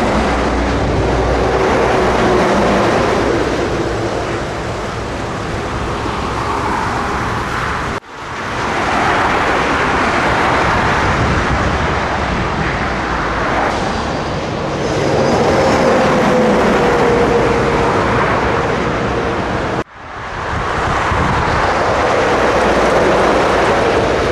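Scania truck driving on the road: steady engine and tyre noise, cut into three clips with sudden breaks about 8 and 20 seconds in.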